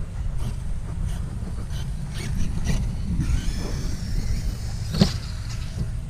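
Traxxas electric RC car running, its brushless motor whining briefly from about three seconds in, with a sharp knock about five seconds in, over a steady low rumble of wind on the microphone.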